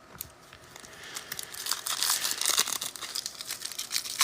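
Foil trading-card pack wrapper being torn open and crinkled by hand, a dense crackling that builds up about a second in.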